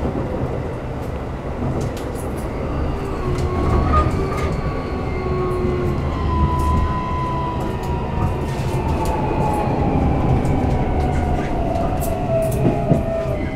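Keikyu New 1000 series train running, heard from inside the car: the Toyo VVVF inverter and traction motor whine slides steadily down in pitch as the train slows. Wheels rumble underneath, with occasional clicks over rail joints.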